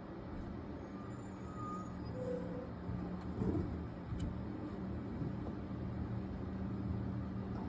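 Garbage truck engine running steadily as the truck approaches, with a brief louder burst about three and a half seconds in.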